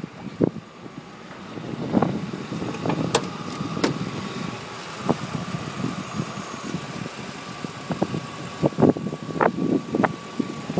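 Vehicle engine idling with the hood open. A steady high whine sets in about two and a half seconds in, with scattered irregular knocks and bumps throughout.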